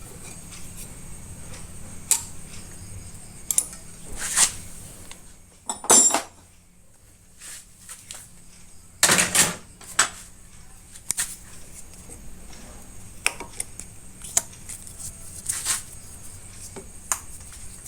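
Hand tools and small metal parts clinking and knocking at irregular intervals during motorcycle brake work, with a few louder clatters, over a faint steady hum.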